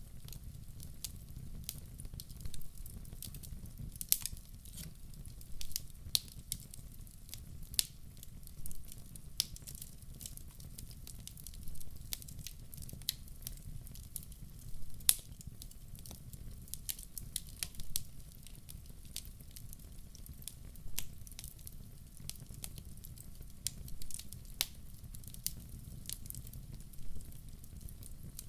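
Wood fire burning in a fireplace: irregular sharp crackles and pops from the logs over a low steady rumble of the flames.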